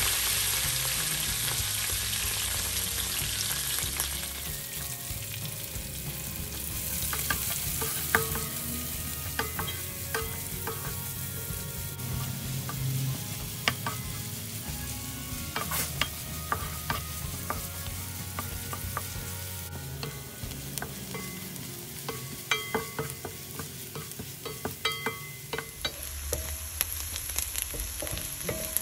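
Oil frying in a wok with cumin seeds, green chillies and then chopped red onions, stirred with a wooden spatula that scrapes and taps against the pan. The sizzle is loudest for the first few seconds, then softens, with frequent sharp taps of the spatula.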